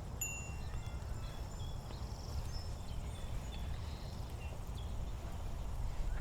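Small birds chirping in many short, high, thin notes over a steady low rumble.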